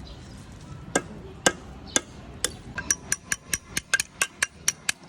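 Hammer striking metal: single sharp blows about every half second, then from near the middle quicker ringing taps about four a second.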